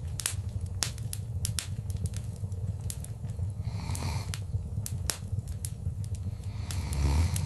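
Wood fire burning in a fireplace, crackling with irregular sharp pops and snaps over a steady low rumble of flame. A brief hissing swell comes about four seconds in and another near the end.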